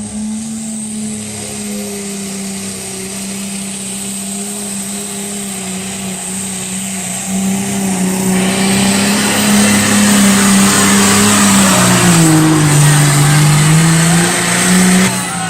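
Pulling tractor's engine run flat out under full load during a pull, holding a steady high note. The sound grows louder and harsher about halfway through, and the engine note sags briefly near the end before picking back up.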